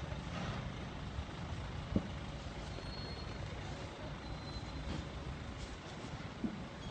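Steady vehicle and road noise, low and rumbling, as picked up by a dashcam, with a short sharp knock about two seconds in and a smaller one near the end.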